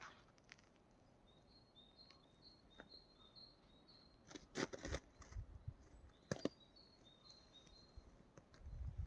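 Faint birdsong: a small songbird repeating short, high chirps in a quick series, twice. A few sharp clicks and low thumps come in the second half.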